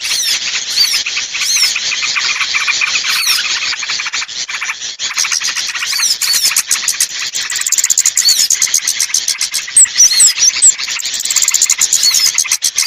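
A bird-lure (pikat) recording for small birds: a dense chorus of many small birds chirping and trilling rapidly and continuously, with short high whistled notes sliding up and down among them.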